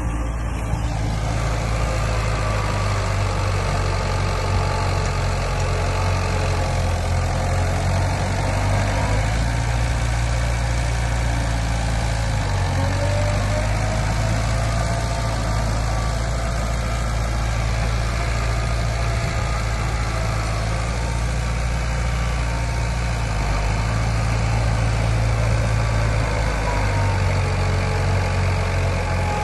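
Heavy diesel engine of earthmoving machinery running, a steady low rumble whose pitch and level shift a few times as the load changes.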